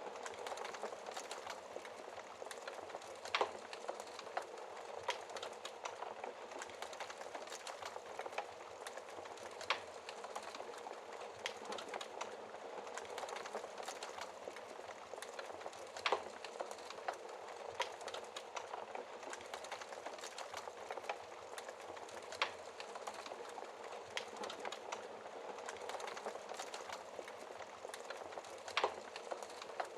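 Wood fire crackling in a fireplace: a steady hiss of burning logs full of small ticks, with a sharper pop about every six seconds.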